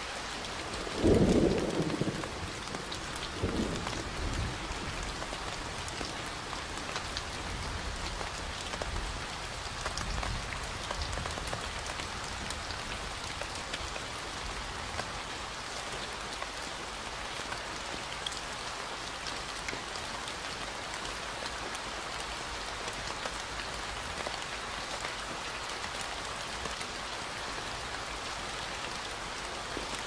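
Steady rain with thunder: a loud thunderclap about a second in, a weaker one a couple of seconds later, and fainter low rumbles near the middle.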